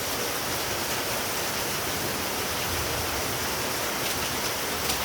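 Heavy rain falling, a steady even hiss, with a couple of faint ticks near the end.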